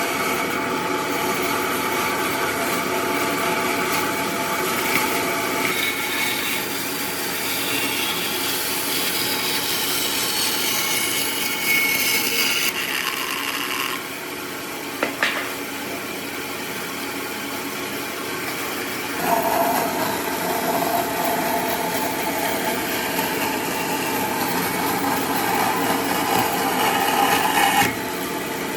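Power tools cutting and abrading wood, in several stretches that change sound abruptly from one to the next, with a short sharp knock about fifteen seconds in.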